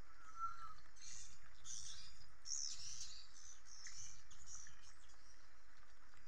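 Swiftlets twittering in quick, high chirps, coming in clusters for about four seconds, with one short lower chirp just before.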